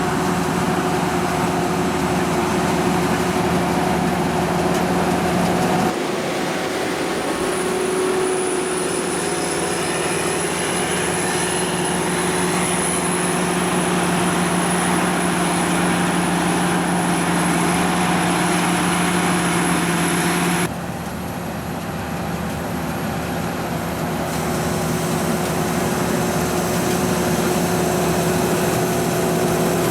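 Sakpattana KM-D#1 rice combine harvester running steadily: a continuous mechanical drone with a steady hum from its engine and machinery. The sound changes abruptly twice, at about six and about twenty-one seconds in.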